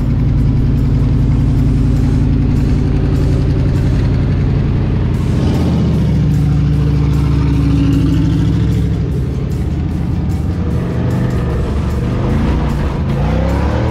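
A vehicle engine running while driving, mixed with background music.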